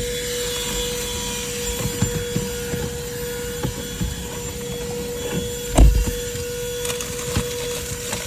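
Vacuum cleaner running with a steady whine and hiss, with scattered knocks and clicks as the nozzle bumps against things, and one louder thump about six seconds in.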